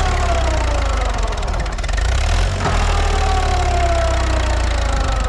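Mahindra B275 tractor's diesel engine running with a deep, steady rumble, and above it a tone that falls in pitch twice.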